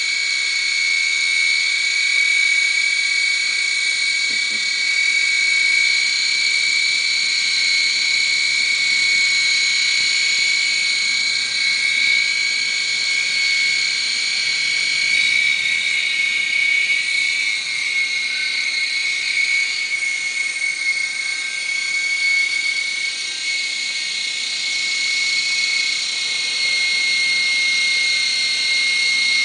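Micro RC helicopter's small electric rotor motors spinning with a steady high whine, the pitch shifting slightly about halfway through. The owner suspects one of the motors is faulty.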